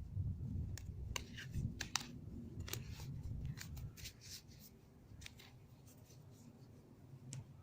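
Small handling sounds at a workbench: a run of sharp, separate clicks and rustles for the first few seconds, then fainter, over a steady low rumble.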